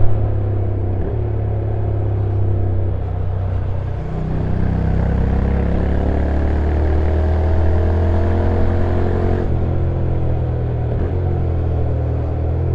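Honda NC750X parallel-twin engine running under way downhill, its note climbing slowly with the road speed. The pitch steps and breaks briefly a few times, about a second in and again near nine and a half and eleven seconds, where the dual-clutch gearbox changes gear.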